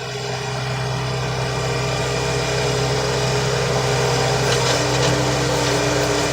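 Mahindra tractor's diesel engine running steadily, getting a little louder over the first second.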